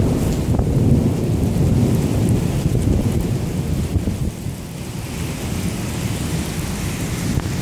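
Thunder rumbling over steady heavy rain, the rumble easing somewhat about two-thirds of the way through.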